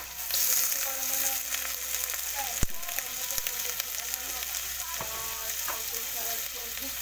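Chicken pieces and ginger sizzling in a hot wok over a wood fire: the searing stage of chicken tinola. The sizzle swells just after the start and holds steady, with a sharp click about two and a half seconds in.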